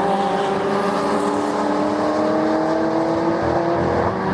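Racing car engine under power, its note climbing slowly and steadily as the car accelerates.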